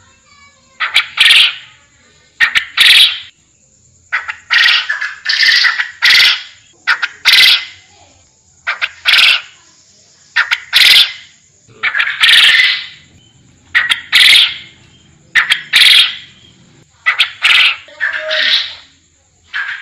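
Forest quail (puyuh hutan) calling repeatedly: loud, short, noisy calls, often in pairs or threes, about one burst every one to two seconds. A faint steady high tone runs underneath.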